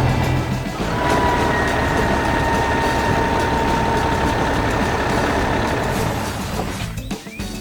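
Heavy construction machine engine running with a rough, noisy rumble. From about a second in, a steady high whine sags slightly in pitch. The sound drops away briefly near the end.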